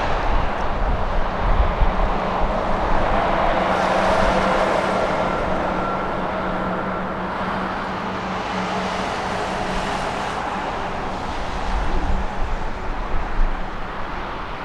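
Boeing 777 jet engine noise swelling and fading as an airliner passes, with a faint steady whine. Gusts of strong wind buffet the microphone about a second in and again near the end.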